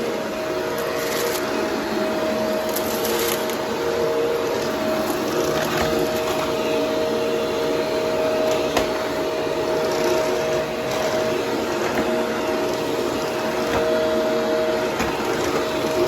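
Vacuum cleaner running steadily, a constant hum with a steady whine, broken now and then by brief crackles and clicks.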